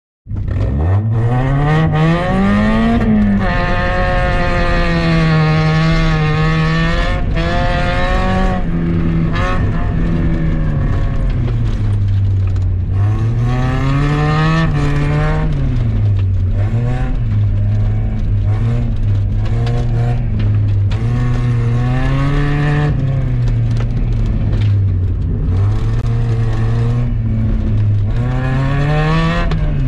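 Mazda Miata's 1.8-litre four-cylinder engine heard from inside the cabin during a rallycross run, its pitch climbing and dropping again and again as the car accelerates, shifts and slows through the course. Tyre and road noise from the dirt surface runs underneath.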